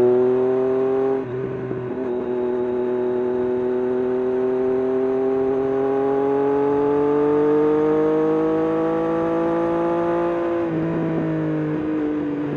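Triumph Street Triple RS's inline-three engine through an SC-Project S1 exhaust, pulling under acceleration: after a short dip in pitch about a second in, the engine note climbs slowly and steadily for about nine seconds, then falls off near the end.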